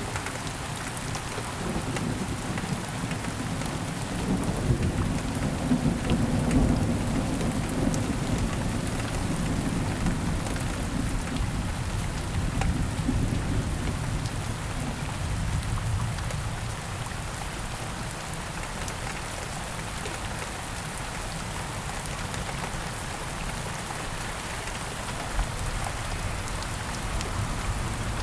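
Heavy rain falling steadily with a fine crackle of drops. A long, low thunder rumble swells in the first half and dies away about halfway through.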